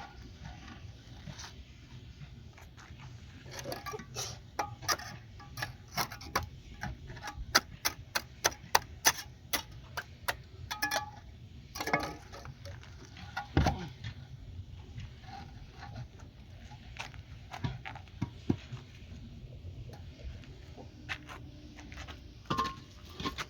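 Irregular sharp taps and knocks of a mason's trowel on cement blocks and mortar. They are thickest in the first half, with a heavier knock about halfway through and a few scattered taps later.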